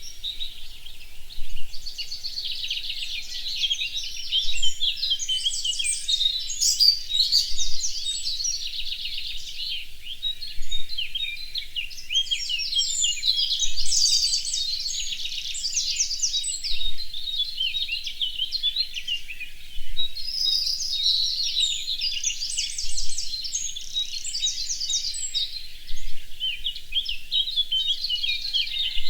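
Several songbirds singing at once: overlapping high chirps and fast trills of quickly repeated notes, going on without a break.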